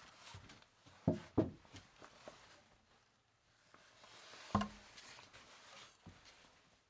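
Knocks from handling tools or parts in a workshop: two sharp knocks about a second in, then a heavier knock midway with a short low ring after it, and light ticking and shuffling between.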